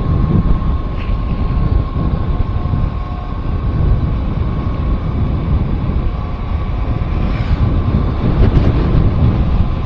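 Wind buffeting the microphone of a moving vehicle, a steady rumble over the running of the engine, with a thin steady whine throughout.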